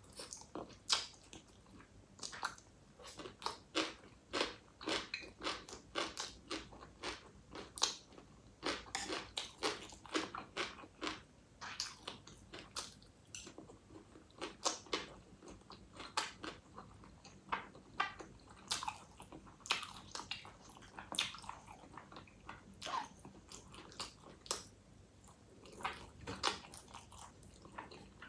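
A person chewing and biting food: a run of short crisp crunches and mouth clicks at irregular intervals, a few each second.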